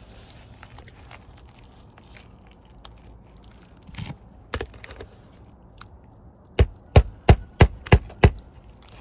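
Hammer driving a roofing nail into an asphalt shingle: a few light taps about four seconds in, then six quick hard strikes, about three a second, near the end.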